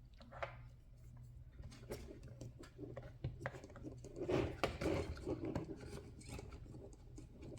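Small plastic RC-car parts and hand tools being handled during disassembly: an irregular run of light clicks, taps and scraping, busiest around the middle.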